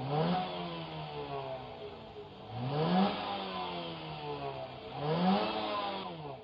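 A vehicle engine revs three times, about two and a half seconds apart: each time the pitch climbs quickly and then falls away slowly.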